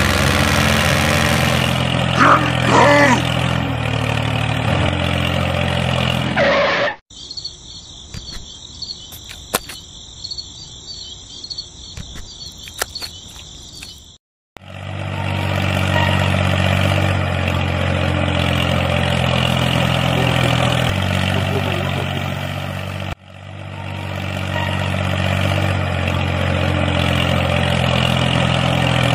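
Tractor engine running steadily, broken off for about seven seconds in the middle, where only a high chirping like crickets and a few clicks are heard; the engine cuts out again briefly near the end.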